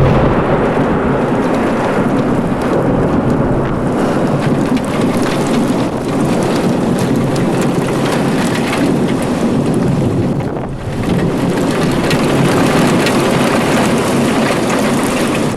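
Heavy rain pouring in a violent thunderstorm, with thunder rumbling. The sound is loud and steady, easing briefly about ten and a half seconds in.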